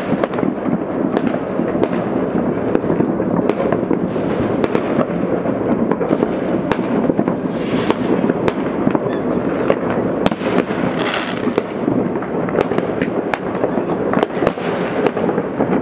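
New Year's Eve fireworks and firecrackers going off all over a city: a continuous rumble of many distant explosions, with frequent sharp nearer bangs. A hissing crackle swells up twice, about 8 and 11 seconds in.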